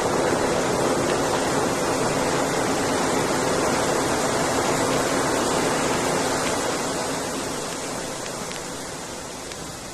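A steady rushing noise of a fast-moving vehicle with no clear engine note, fading out gradually over the last four seconds.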